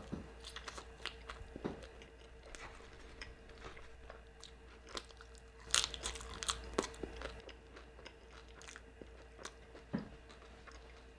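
Crunchy tortilla chip being bitten and chewed close to the microphone, with irregular sharp crunches that are loudest about six seconds in.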